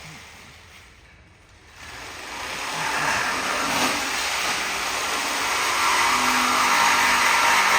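Power tool cutting through the exhaust pipe to remove the rear mufflers: a steady rushing whir that starts about two seconds in and builds louder.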